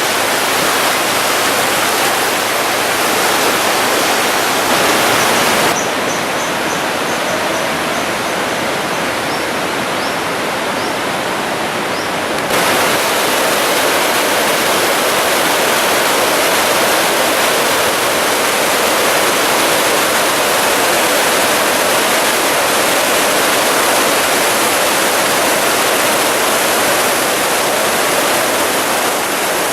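Fast floodwater of a flash flood rushing and churning without a break, loud and steady. Between about 6 and 12 seconds in it turns a little quieter and duller, with faint high chirps.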